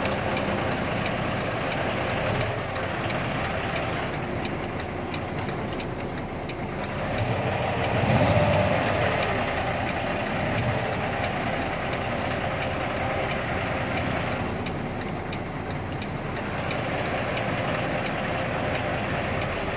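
Tractor-trailer's diesel engine running with the rig rattling as it moves, swelling louder about eight seconds in.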